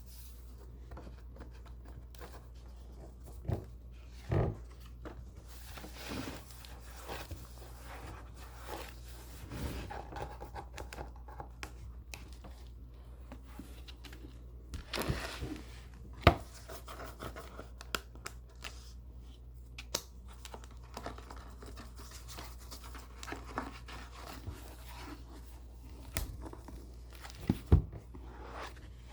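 Pages of a book being turned and handled: soft paper rustling that swells and fades, with scattered light taps and knocks. The sharpest tap comes about halfway through and another near the end, over a steady low hum.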